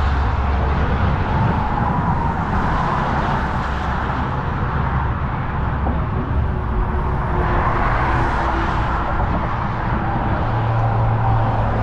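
Steady outdoor road traffic noise with a low rumble, swelling as vehicles pass about two seconds in and again about eight seconds in.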